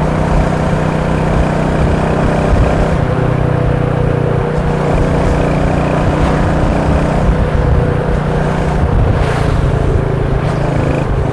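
Royal Enfield Meteor 350's single-cylinder engine and exhaust running at a steady, even pace while riding, over a low rumble.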